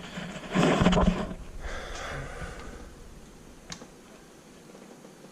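A man's heavy exhale or sigh, then faint handling noise and a single sharp click about three and a half seconds in.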